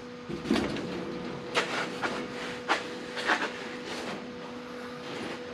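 A series of about seven sharp knocks and clanks, irregularly spaced, from tools and sheet metal being handled against the car body, over a steady low hum.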